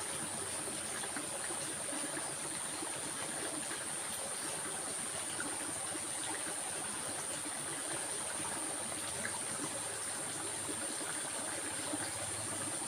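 Stream water running steadily, with a steady high, thin tone over it.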